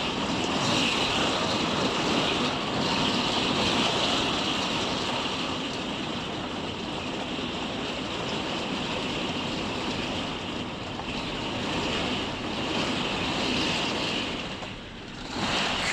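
Heavy rain pouring steadily onto a caravan, a dense continuous hiss that eases briefly near the end.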